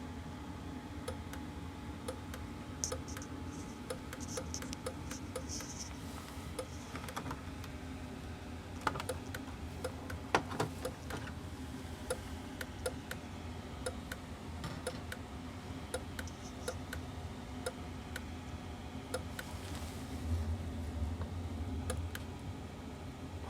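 Irregular, persistent clicking from a Dutchmen 2012 travel trailer's furnace system as it runs, often two or three clicks a second, over the steady low hum of the running furnace. The clicking sets in when the furnace cycles on and grows worse the more the heater cycles.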